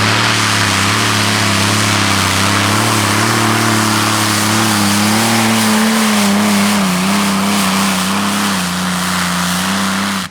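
Allison V12 aircraft engines of a modified pulling tractor running flat out under load during a pull. The sound is loud and steady, and its pitch wavers and sags slightly in the second half.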